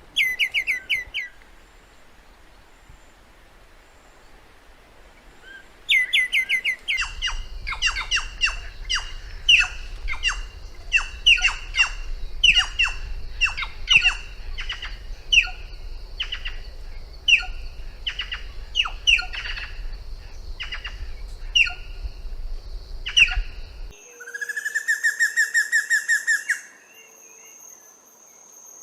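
Songbirds singing. A brief rapid run of falling notes opens, and after a pause comes a long series of sharp, falling whistled notes, a little more than one a second, over a low rumble. Near the end it gives way to a fast, even trill followed by a thin steady high tone.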